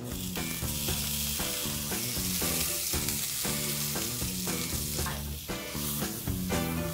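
Chicken hearts sizzling as they fry in hot butter in a frying pan, the sizzle starting as the hearts go into the pan.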